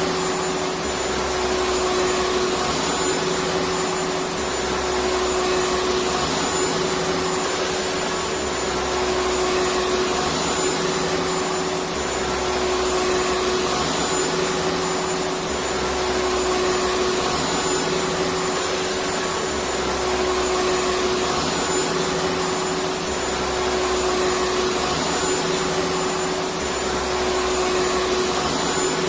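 Vacuum cleaner running steadily: a constant rushing of air with a steady pitched hum through it, unbroken throughout.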